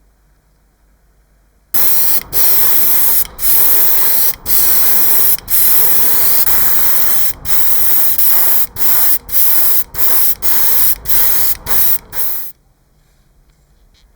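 Compressed-air paint spray gun spraying in a loud hiss. It starts about two seconds in, runs for about ten seconds with a dozen brief breaks where the trigger is let off, then stops.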